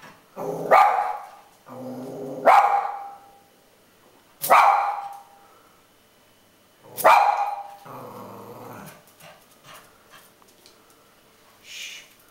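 Dogs barking about four times, loud and sharp, with low growling in between, warning off cats outside the window; it tails off to a few faint sounds in the last few seconds.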